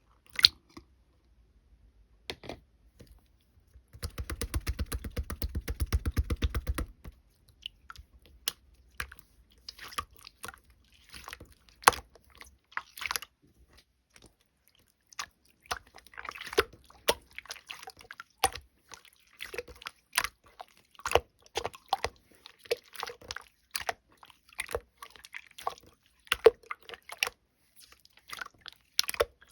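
Slime being squeezed, poked and stretched by hand: irregular sticky clicks and pops, with a fast run of crackling from about four to seven seconds in.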